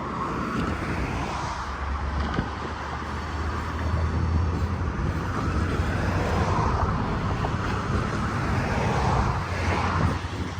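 Diesel freight locomotive running with a steady low engine hum, together with the rolling noise of the train, which swells and fades a few times.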